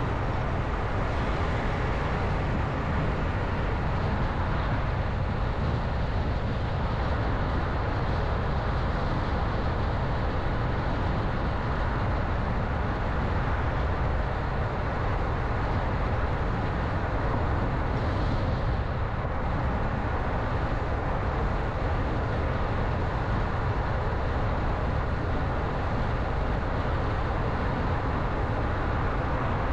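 A car driving at a steady pace: a constant low rumble of road and tyre noise.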